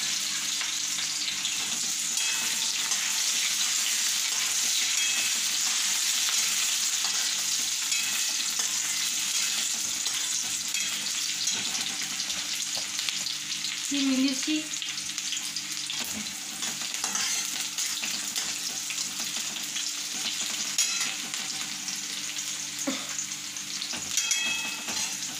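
Chopped onion sizzling as it sautés in hot oil with mustard seeds and cumin in a steel kadhai: a steady frying hiss, a little louder in the first half. The steel spatula scrapes and clinks against the pan a few times.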